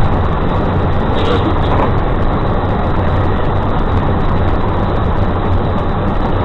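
Steady vehicle engine and road noise, heard from inside the moving vehicle through a dash camera's microphone, with a constant low hum under it.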